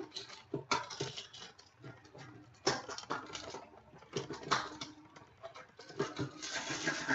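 Trading cards and their packaging being handled at a table: irregular light rustling, sliding and tapping of card stock and plastic.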